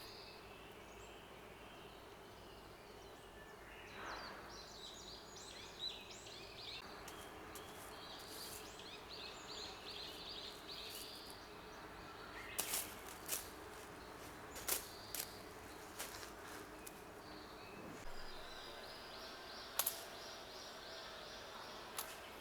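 Forest ambience: birds singing faintly over a steady low hiss, with a few short sharp clicks scattered through it.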